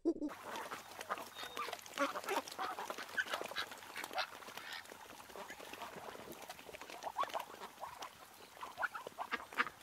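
Egyptian geese calling in short, harsh honks, with splashing as one lands and skids across the water.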